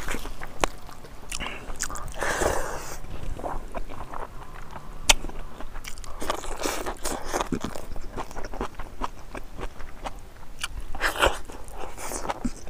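Close-miked eating sounds: a man chewing and biting on a mouthful of rice and leafy greens, with many small wet mouth clicks and a few longer rustling squelches as his fingers work the rice on the plate.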